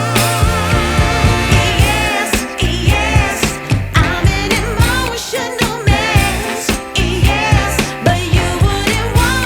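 Pop-style music with a singing voice over a heavy bass beat of about two beats a second, played loud through a large sound-horeg system during a sound check.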